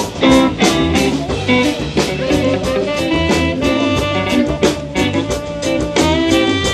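Live band playing a swinging, jazzy tune with guitar, drum kit and saxophone.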